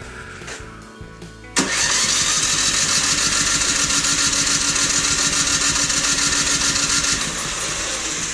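Husqvarna snowblower engine comes on suddenly about one and a half seconds in and runs with a fast, even beat. It drops a little near seven seconds and is fading away at the end.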